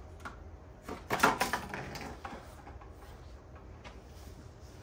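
A quick cluster of knocks and clatter, as of tools or parts being handled, about a second in, followed by a few faint clicks.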